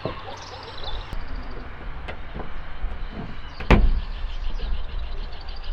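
Scattered clicks and knocks of hand work on an old pickup truck being dismantled, with one louder knock a little over halfway through.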